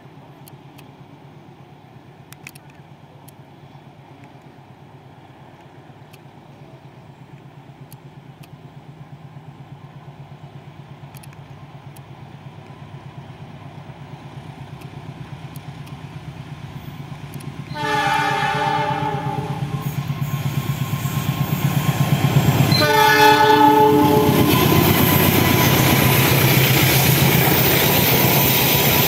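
Diesel train approaching, its engine drone growing slowly louder, then two horn blasts a little past halfway, the first about two seconds long and the second shorter about five seconds later. The train then passes close with loud wheel-on-rail noise.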